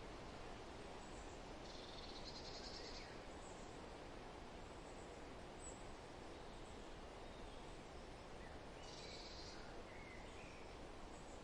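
Faint, steady rustle of wind through forest foliage, with songbirds calling: a short high trill about two seconds in and again about nine seconds in, and a few faint scattered chirps between.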